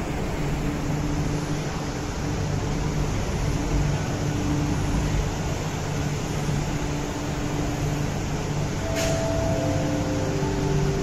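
MTR Kwun Tong line train pulling out and moving away: a steady rumble with a low hum. About nine seconds in there is a click, then three overlapping tones stepping down in pitch.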